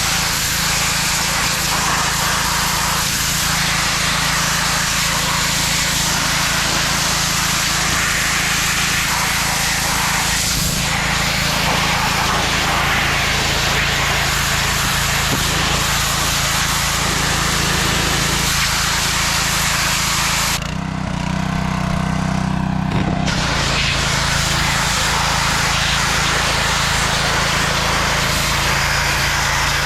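A small motor running steadily under a loud, even rushing noise; the rushing drops out briefly about two-thirds of the way through while the motor keeps going.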